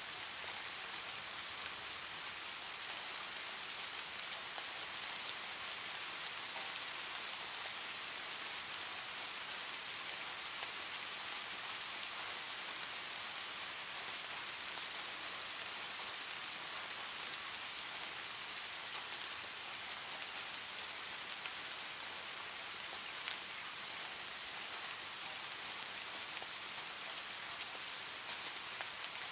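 Heavy rain falling steadily on a tin roof, an even hiss with a few sharper drop hits now and then.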